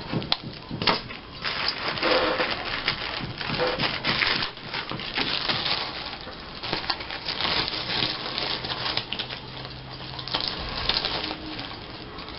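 Close handling of paper craft pieces: crinkling, rustling and small taps and clicks as embellishments and glue dots are peeled and pressed onto a paper tag.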